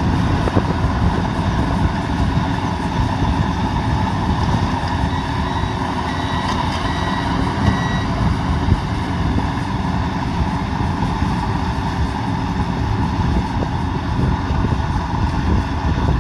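Diesel engine of a rice combine harvester running steadily, with a reversing alarm giving a few short beeps about six to eight seconds in.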